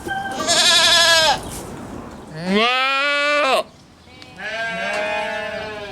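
A farm animal bleating three times, each call about a second long. The first wavers in pitch, and the second rises and then falls.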